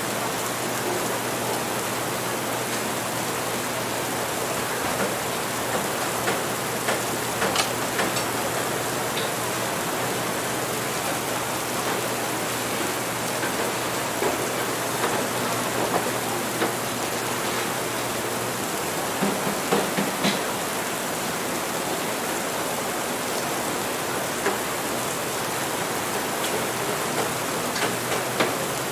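Steady rain, with scattered light clicks and knocks over it and a faint low hum that stops about two-thirds of the way through.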